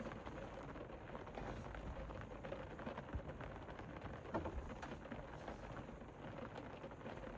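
Rain pattering on the roof of a camper van, heard from inside: a steady hiss of drops with many small ticks.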